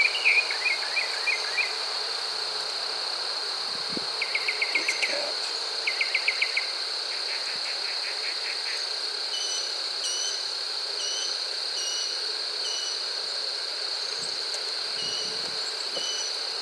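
Outdoor insect chorus: a steady high-pitched drone with several short trains of rapid chirping, about eight pulses a second, in the first half, then a short chirp repeating a little under twice a second.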